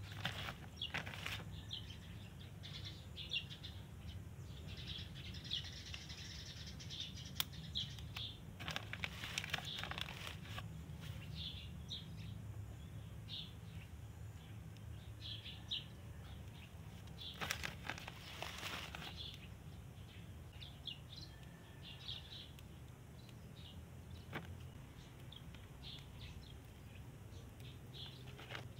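Small birds chirping now and then, short high chirps scattered throughout over a steady low background rumble. There are two longer spells of rustling, about nine seconds in and again a little past halfway.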